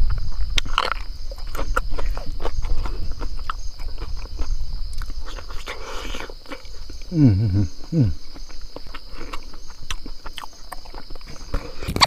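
A person chewing and smacking while eating, with many short wet clicks, against a steady high insect drone. About seven seconds in come two brief low sounds that fall in pitch.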